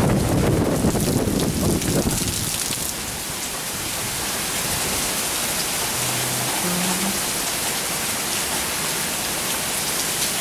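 Steady hiss of rain falling in a thunderstorm, with a low rumble of thunder dying away over the first two seconds.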